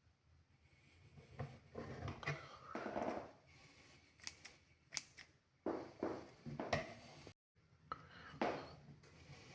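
Intermittent rustles and light taps from hands working the materials of a flat toy airplane. The sound briefly cuts out completely a little past seven seconds in.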